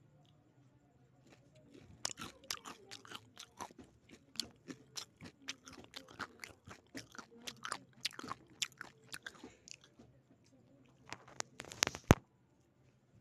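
Crispy fried chicken skin being bitten and chewed close to the microphone: a run of crisp crunches from about two seconds in until about ten seconds. A burst of louder crunches follows, ending in a sharp knock about twelve seconds in.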